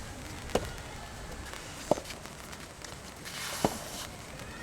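A soft tennis rally: rackets striking the rubber ball three times, about a second and a half apart, each a short sharp hit.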